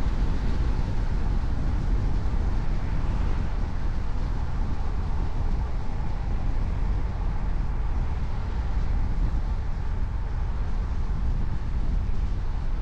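A car driving at a steady speed: a continuous low rumble of engine and tyre road noise that holds level throughout.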